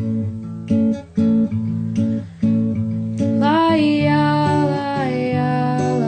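Acoustic guitar strumming and picking chords in a steady rhythm. About halfway through, a wordless sung line, hummed and gliding smoothly in pitch, comes in over the guitar.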